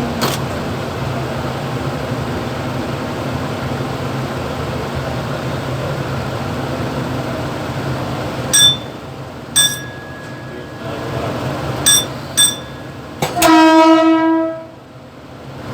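Mumbai local electric multiple-unit train running, heard from the motorman's cab as a steady rumble. In the last third come four short sharp toots, then a horn blast lasting over a second near the end.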